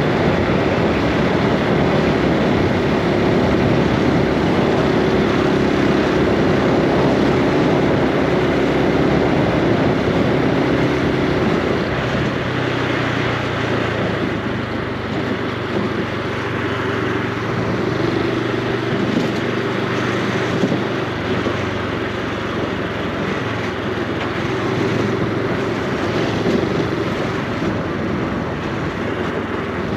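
Honda Super Cub C125's single-cylinder engine and exhaust running while riding, with road and wind noise. About twelve seconds in the engine note drops lower and slightly quieter, as the bike eases off, then picks up again near the end.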